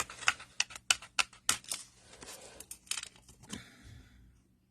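Small fussy cutting scissors snipping through paper: a quick run of sharp snips over the first two seconds or so, then softer rustling of the paper being handled.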